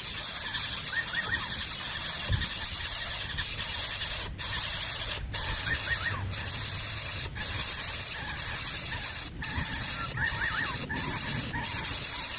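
A steady high hiss, broken now and then by brief dropouts, with a few faint, short, high chirps from small birds about a second in and again near the end.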